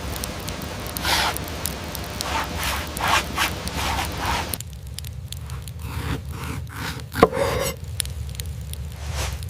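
Repeated scraping and rubbing strokes, then an abrupt change to sparser clicks and taps with one short sharp squeak about seven seconds in.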